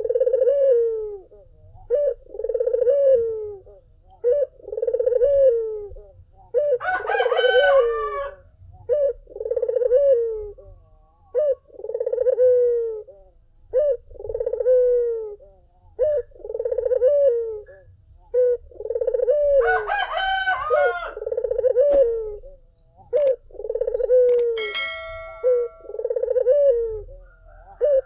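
Barbary dove (puter) cooing over and over, about one coo every two seconds. A rooster crows twice, about seven seconds in and again near twenty seconds.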